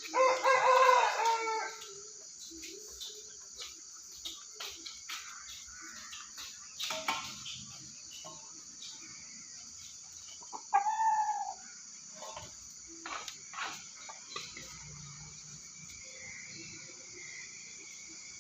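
Aseel rooster crowing: one loud crow of nearly two seconds at the start, then a shorter call about eleven seconds in. A steady high-pitched hiss runs underneath, with a few light clicks.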